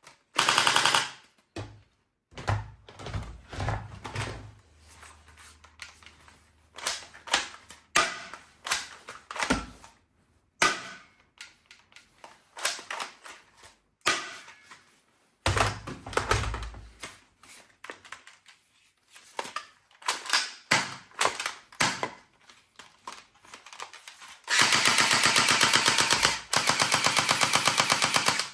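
Toy machine guns firing in rapid rattling bursts, broken by short pauses. Near the end comes one long, continuous rattle.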